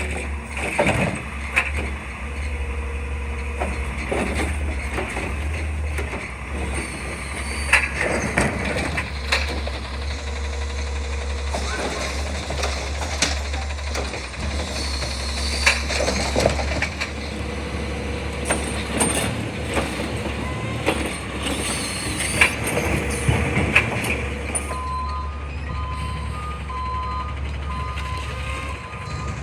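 Garbage truck engine running steadily under repeated clanks and bangs. About 25 seconds in, the truck's reversing beeper starts and beeps on evenly to the end.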